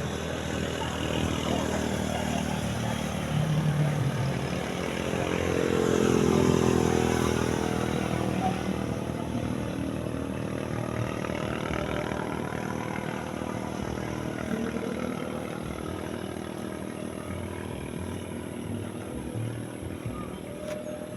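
A motor vehicle's engine passing by, growing louder to a peak about six seconds in, then falling in pitch and fading away.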